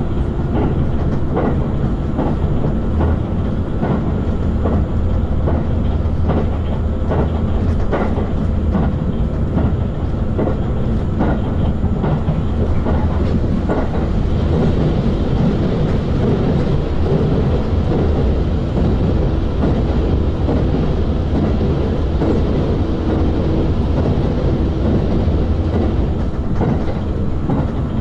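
Passenger train running at about 110 km/h, heard from inside the car: a steady rolling rumble with the clickety-clack of wheels passing over rail joints, the clicks coming often at first and more sparsely later.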